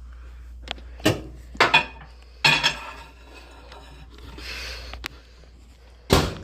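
A bowl clinking and knocking as it is handled and set into a microwave, with a single loud knock near the end.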